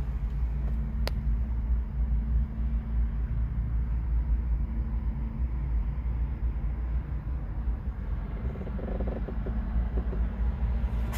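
2004 Jeep Wrangler X's 4.0-litre straight-six idling steadily, a low rumble heard from inside the cabin, with a single sharp click about a second in.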